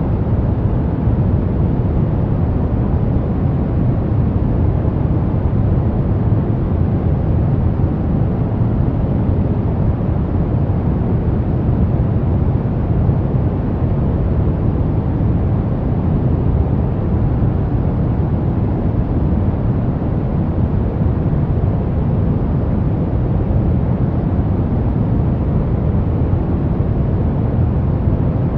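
Steady pink noise: an unbroken, even hiss whose weight lies in the low end.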